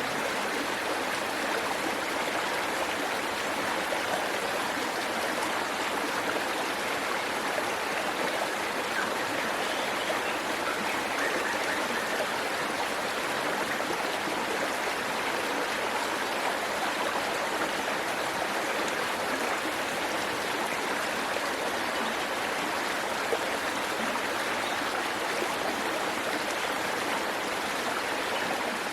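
Waterfall water rushing steadily, an even wash of water noise with no breaks.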